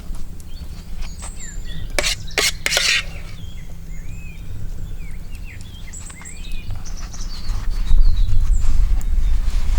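Small birds chirping in short, quick rising and falling calls. Under them runs a low rumble that grows loud about three-quarters of the way in, and a few sharp knocks come about two to three seconds in.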